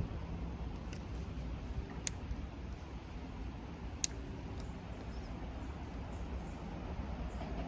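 Steady low outdoor rumble with two sharp clicks about two seconds apart.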